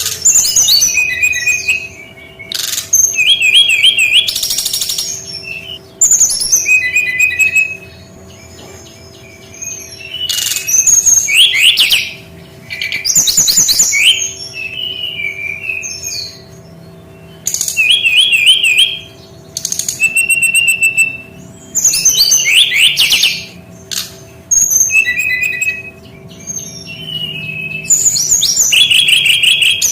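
Brown-chested jungle flycatcher (female) calling: bursts of high, quick chirps and short trilled whistles every couple of seconds, separated by quieter gaps. A faint steady hum runs underneath.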